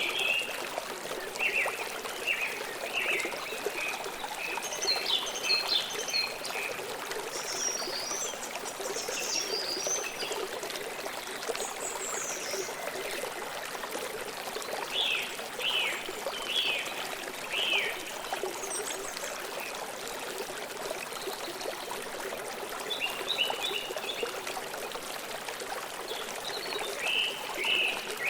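River water flowing and trickling steadily, with small birds chirping in short, repeated phrases at intervals over it.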